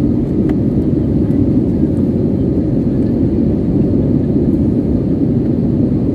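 Steady low cabin noise inside an Airbus A320 airliner: engine and airflow noise heard from a passenger seat, even and unbroken.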